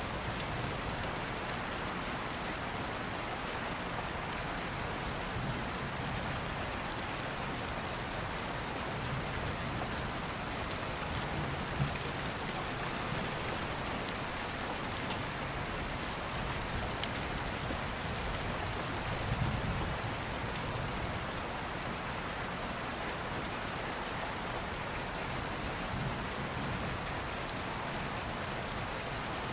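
Steady rain falling, with soft low rumbles of distant thunder swelling now and then and a few sharp crackles from an open fire.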